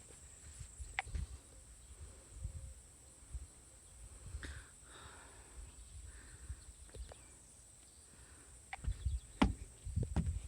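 Wind gusting against the microphone as an uneven low rumble, with a steady thin high-pitched hum and a few sharp knocks near the end.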